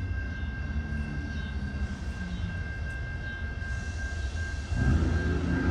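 Approaching GE AC4400CW diesel locomotive leading a loaded coal train: a steady low rumble with a thin steady high-pitched tone above it. The locomotive grows suddenly louder and fuller near the end as it draws close.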